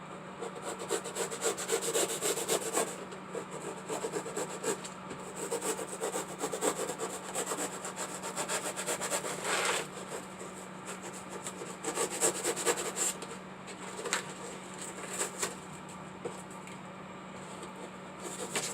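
A blade sawing through styrofoam in rapid back-and-forth strokes, in several spells with short pauses between them. A faint steady hum runs underneath.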